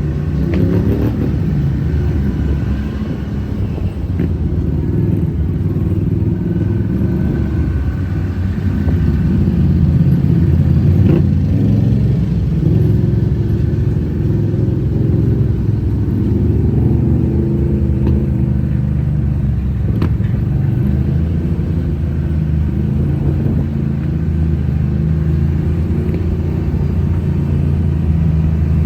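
Off-road vehicle engine running under way with a steady low drone, rising and falling a little with the throttle.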